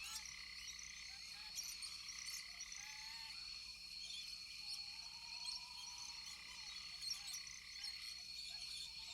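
Rainforest frogs calling in many short chirps over a steady high-pitched insect drone.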